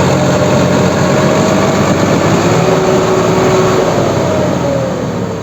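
Tractor engine running hard under load as the tractor tries to climb out of mud without getting free. A faint whine drops in pitch near the end, where the engine eases off.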